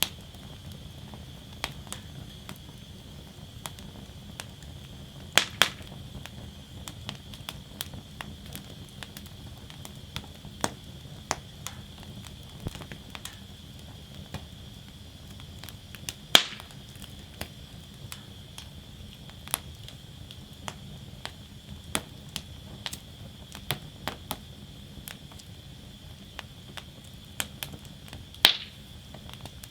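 Wood fire burning in a fire basket: a steady low rumble of flames with irregular crackling and frequent sharp pops. Three pops stand out as louder, one about five seconds in, one around the middle and one near the end.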